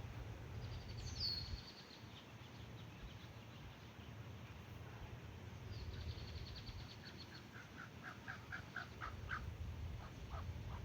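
Goslings peeping. There is a high peep falling in pitch about a second in, then runs of short high notes, and near the end a string of lower, louder notes, over a low steady rumble.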